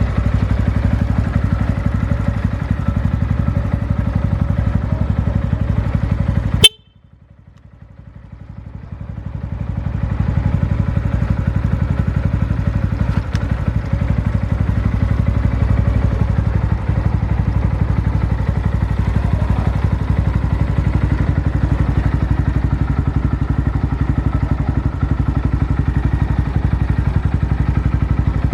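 Honda Monkey 125's single-cylinder engine running steadily at idle through a BEAMS aftermarket muffler, a low even exhaust pulse. About six and a half seconds in, a sharp click cuts the sound out, and it fades back in over about three seconds.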